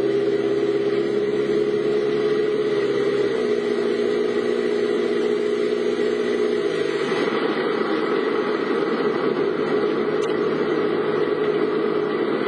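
Car engine running steadily, heard from inside the vehicle, with an even hiss behind it and its hum shifting pitch twice.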